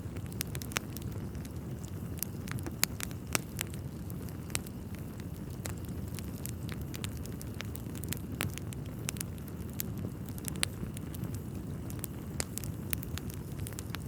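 Wood fire burning in a fireplace: a steady low rush of flame with frequent, irregular sharp crackles and pops from the burning logs.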